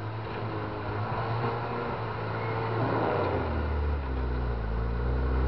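SUV engine running as the vehicle crawls through deep slushy snow; its low engine note drops and grows a little louder about three seconds in.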